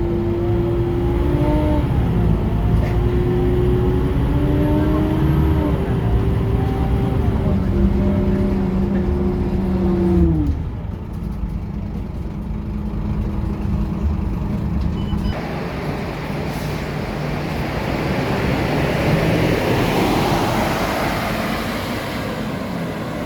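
Scania K230UB city bus's diesel engine and transmission under way: the engine note climbs and shifts through several changes for about ten seconds, then drops abruptly to a steadier lower note. From about fifteen seconds in, a broad rushing noise swells and fades again.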